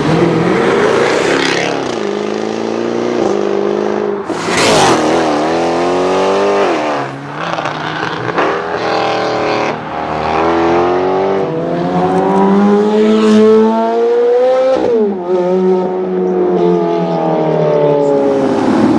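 A high-performance car engine revving and accelerating, its pitch climbing and then dropping several times as it shifts or lifts off. A sharp burst of noise comes about four and a half seconds in.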